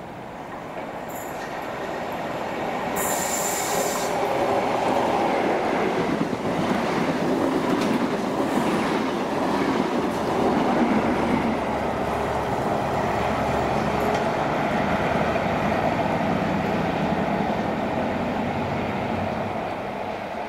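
A train running through the station: it grows louder over the first few seconds, stays loud, and eases off near the end. Brief high-pitched wheel squeals come a few seconds in.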